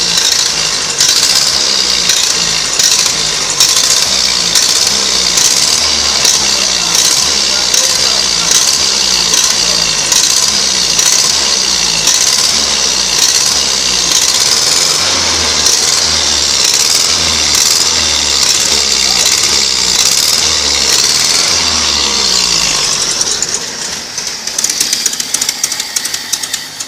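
1956 Land Rover Series I's 2-litre four-cylinder petrol engine running with a steady, even beat after its first start in eight months. Over the last few seconds the beat slows and turns uneven and choppy, and the engine dies at the end.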